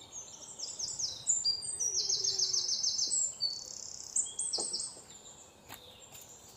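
A songbird singing a string of high, quickly falling whistled notes, with a fast run of repeated notes in the middle of the song. A couple of faint knocks come near the end.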